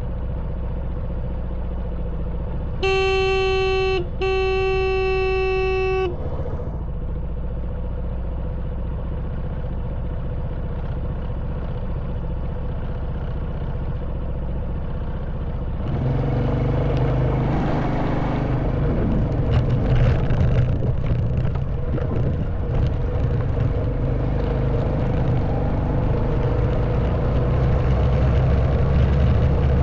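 Honda Wave 110cc motorbike engine running steadily at low speed. About three seconds in, a horn sounds twice, a short toot and then a longer one. From about sixteen seconds in the engine gets louder as the bike picks up speed on a stony track, with rattles and knocks.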